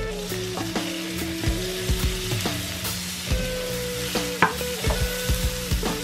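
Shrimp and minced garlic sizzling in melted butter in a nonstick frying pan while a wooden spatula stirs and scrapes through them, with scattered sharp knocks of the spatula on the pan, the loudest about four seconds in.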